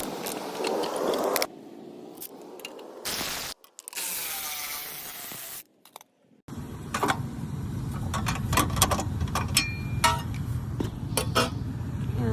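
Metal clinks and clicks of hand tools and loose bolts on a small engine's cover and starter parts as they are unbolted, irregular and sharp. The sound is broken by abrupt cuts, with two brief silences in the first half. From about halfway on the clinks come thick and fast over a low steady hum.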